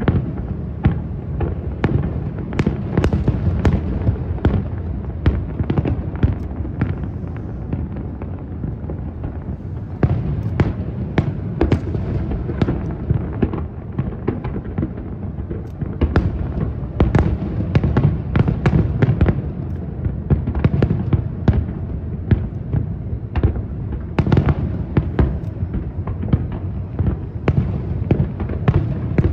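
Fireworks display: a continuous rapid barrage of shells bursting, with dense sharp cracks several times a second over a constant low rumble of booms.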